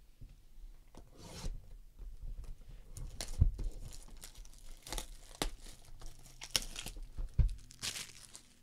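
Trading-card packaging being torn and crinkled while cards are handled, with a few sharp knocks scattered through.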